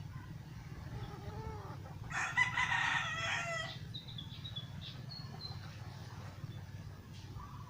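A rooster crows once, a loud call of about a second and a half that drops in pitch at its end, over a steady low hum.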